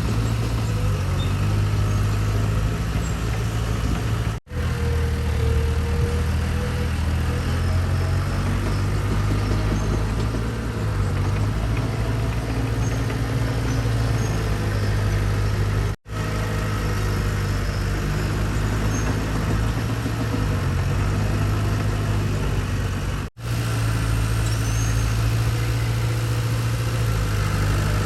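Heavy diesel engine of earthmoving machinery running steadily at a low, even pitch. The sound cuts out sharply for a split second three times.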